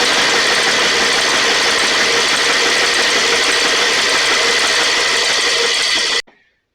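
Compressed air blowing from an air nozzle, a loud steady hiss that cuts off sharply about six seconds in, drying a fuel-soaked spark plug.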